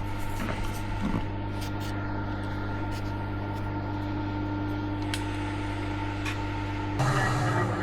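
Milling machine running with a steady hum. Near the end there is a louder, rougher stretch of about a second.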